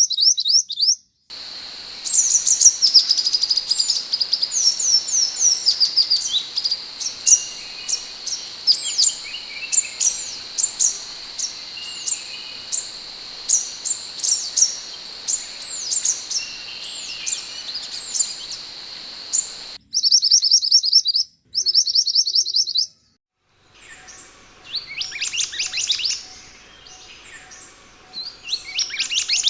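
Minivet (sepah hutan) song: rapid runs of short, high whistled notes, each falling in pitch, over a steady high hum. The audio cuts off abruptly a few times, with a block of fast buzzy repeated notes about two-thirds through and trilled bursts near the end.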